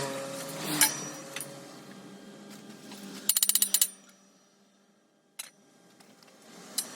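Metal clinks and knocks from handling steel and tools: a sharp knock about a second in, a quick rattling run of clicks about halfway, then a few single clicks.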